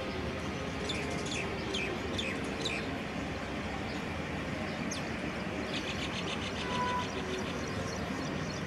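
Birds chirping over a steady outdoor background rumble. There are several short falling chirps in the first few seconds, then a fast trill about six seconds in.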